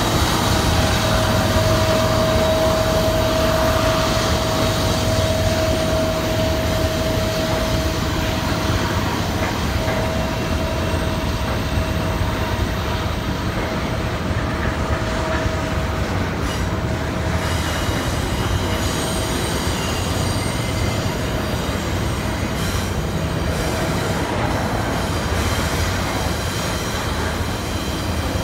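Double-stack intermodal well cars rolling past on a curve: a steady rumble of steel wheels on rail with wheel-flange squeal from the cars negotiating the curve. The squeal is strongest in the first third, with thinner higher-pitched squeals coming in later.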